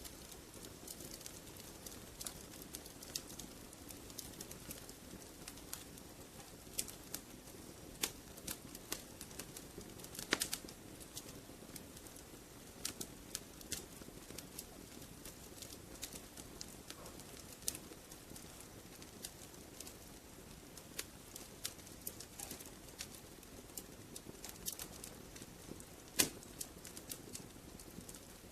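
Wood fire in a fireplace crackling, with a low steady rush of burning and irregular sharp snaps and pops, a few louder ones scattered through.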